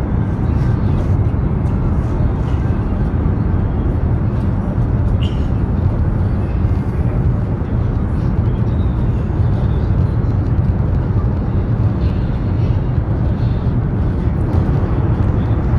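High-speed train running at speed, heard inside the passenger car as a steady, even low rumble.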